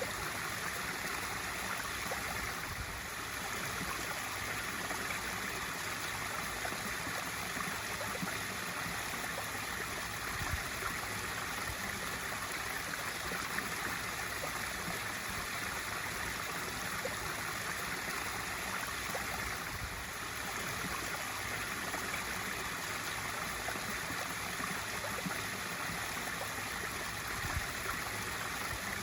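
Swimming pool waterfall feature pouring and splashing steadily into the pool.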